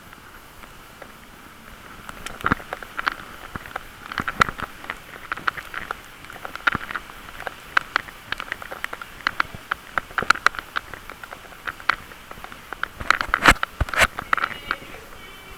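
Irregular clicking and rattling over a steady hiss, picked up while riding a bicycle, with busier clusters from about two seconds in and a loud flurry near the end.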